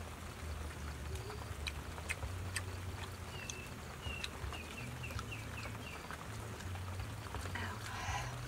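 A small bird calling a quick run of about eight short chirps, a few a second, in the middle, over a steady low rumble with scattered faint clicks.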